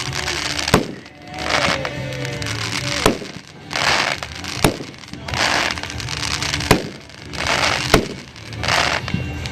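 Mad Ox Redneck Revenge, a 500-gram consumer fireworks cake, firing its shots: each is a rushing hiss followed by a sharp bang, about five of them. Near the start there are a couple of falling whistles.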